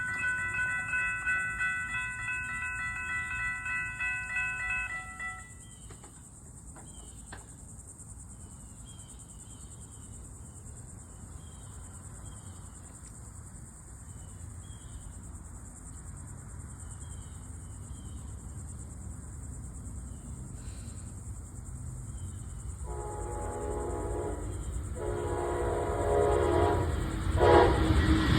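A railroad crossing bell rings in quick, even strokes and stops about five seconds in. Insects chirp over quiet background noise until a Brightline train's horn sounds in long blasts, starting about 23 seconds in and growing louder as the train nears the crossing.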